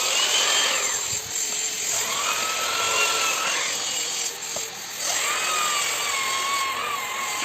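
Electric drywall sander running, its motor whining over a steady hiss. The whine dips and rises in pitch and drops out briefly twice.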